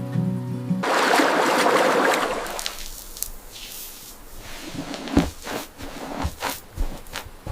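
Acoustic guitar music ends under a second in, giving way to water splashing and sloshing, then a run of scattered sharp knocks and clicks.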